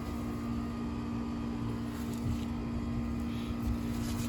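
A steady mechanical hum with two low, unchanging tones over a constant background noise.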